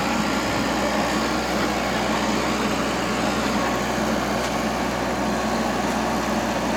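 Motor vehicle engine running steadily at an even level.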